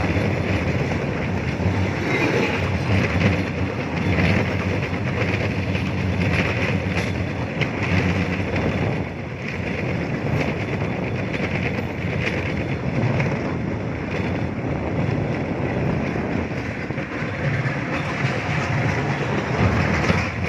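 Cambodian bamboo train (norry) running along the rails: a steady, fairly loud mix of its small motor and the platform riding the track, swelling and dipping slightly.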